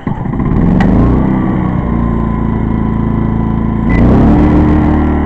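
Small gasoline inverter generator engine (a Pulsar 2300-watt) revving up from quiet to a loud, steady run as eco mode is switched off, with a click about a second in. About four seconds in there is another click and the engine note steps up and gets louder, as it takes on more load.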